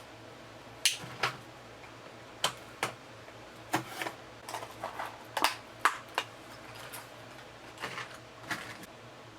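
Scattered, irregular sharp clicks and clacks of small hard parts and hand tools being handled, about fifteen of them over several seconds, during wiring of the boat's power and ground distribution blocks and switch panel.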